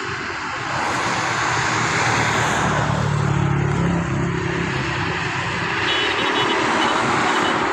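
An engine approaching and passing close by. It grows louder over the first couple of seconds, with a steady low hum over a broad rushing noise.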